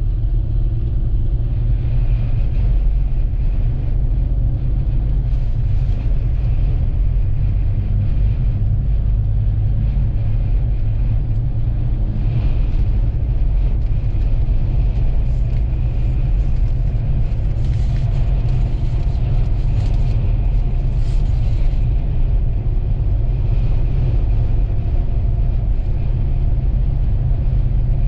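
Steady low rumble of a vehicle driving on the highway, heard from inside the cab: road and engine noise with no sudden events.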